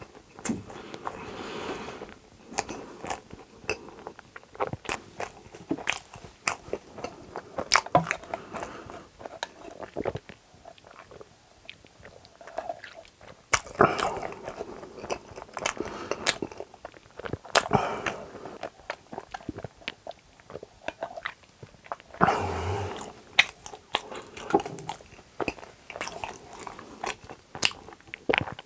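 Close-up wet chewing, smacking and mouth clicks of a man eating a mouthful of donut, irregular and ongoing, with a sip through a straw about halfway through.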